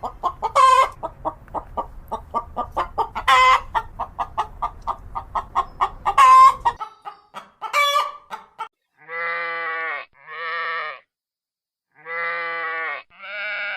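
A chicken clucking rapidly, about five clucks a second, broken three times by a louder squawk, for the first seven seconds or so. Then a single call, followed by four drawn-out, wavering bleats about a second long each.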